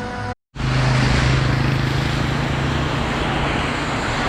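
Jeep engine running with a steady low hum under loud hiss of road and wind noise while driving. It starts after a brief cut to silence near the beginning.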